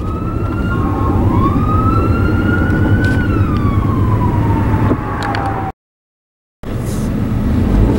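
An emergency-vehicle siren wailing: one slow rise in pitch, then a long fall, over the steady road rumble of the car. The sound cuts out completely for about a second near the end.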